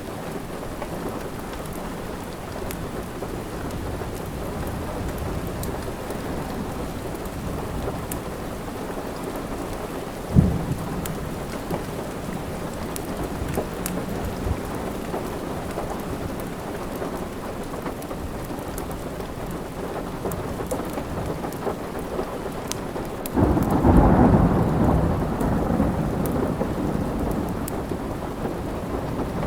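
Steady rain with a roll of thunder near the end that comes in suddenly, swells and slowly fades. A single sharp low crack about ten seconds in.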